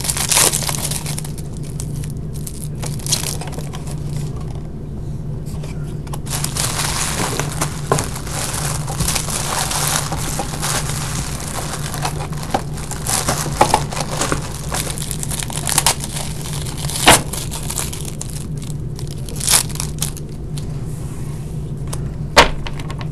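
Trading-card pack wrappers crinkling and tearing, with irregular clicks and rustles of cards being handled, over a steady low hum.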